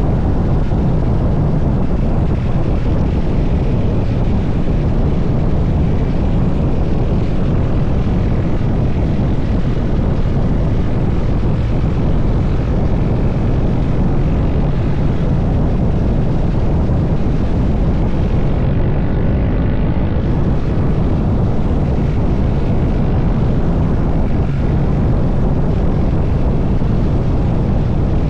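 Motorcycle engine running steadily while riding at speed, mixed with wind noise on the microphone.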